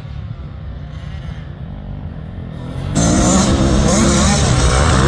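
85cc two-stroke motocross bikes running on the track: a steady engine drone, then about three seconds in a much louder engine close by, its revs rising and falling.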